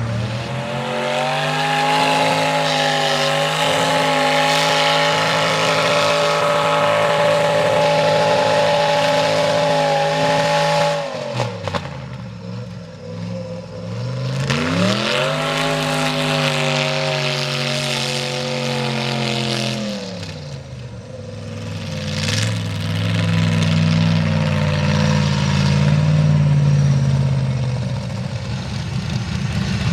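Mega truck engine revved up and held at high revs for about ten seconds, dropping back, revved and held again for about five seconds, then a lower surge of revs near the end.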